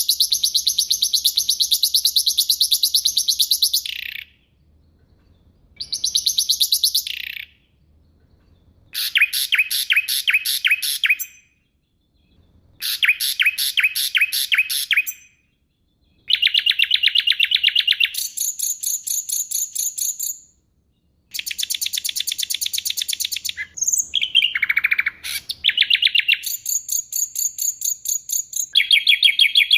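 Songbird singing loud, high bursts of very rapid trilled notes, each phrase lasting a few seconds with short pauses between them.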